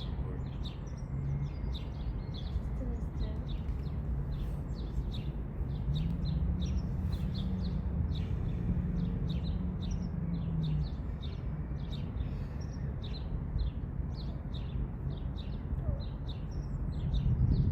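Small birds chirping rapidly and repeatedly, short high notes over a steady low background rumble.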